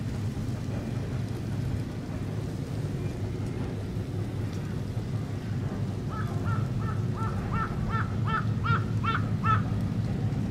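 Wind rumbling steadily on the microphone. From about six seconds in, a bird calls in a quick series of about a dozen short calls, getting louder toward the end.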